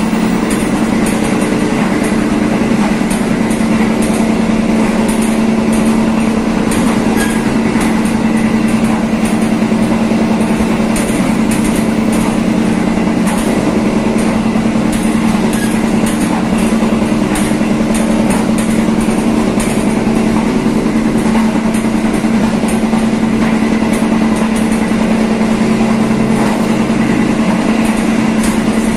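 Passenger train running along the track: a steady hum with rushing wheel-and-rail noise and frequent light ticks.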